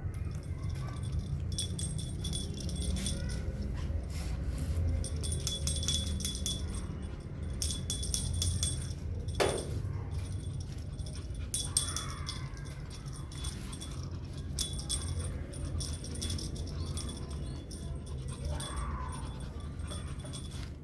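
Jingling like a small bell, coming in several bursts, over a steady low rumble.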